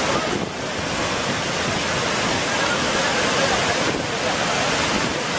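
Tsunami floodwater rushing, a steady loud roar.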